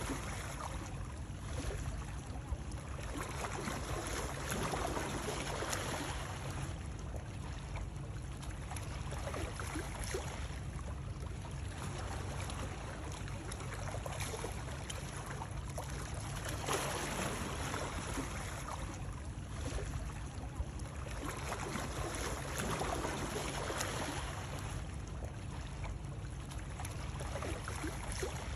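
Continuous rushing water noise that swells and eases every few seconds over a steady low rumble.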